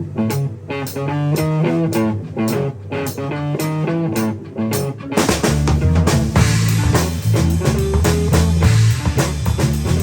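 A rock band starts a song live: an electric guitar plays the opening riff over steady light ticks, then about five seconds in the bass and full drum kit come in.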